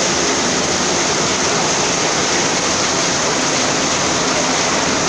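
Heavy rain and running runoff water making a steady, loud rushing hiss without a break.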